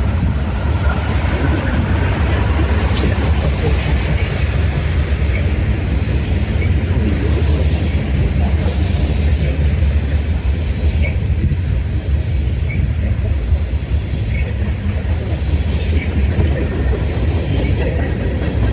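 Freight cars rolling past: a steady low rumble of steel wheels on rail, with faint clicks here and there.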